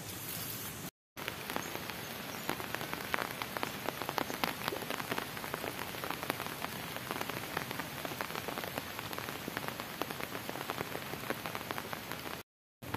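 Light drizzle that has just begun: a steady hiss of rain with many individual drops ticking. It is broken by two short silences, about a second in and near the end.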